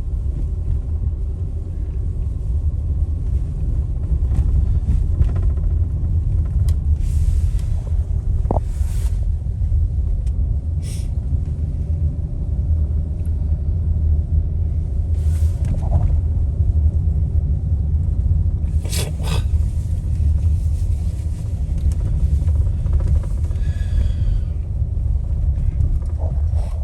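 Steady low road rumble of a car driving, with a few brief hissing swishes.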